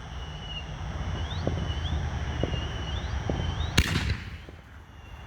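6-inch Miracle 'Bombs' canister shell firing: a low rumble with a few faint ticks, then a single sharp, loud boom about four seconds in that rings out. Faint repeated chirps sound in the background.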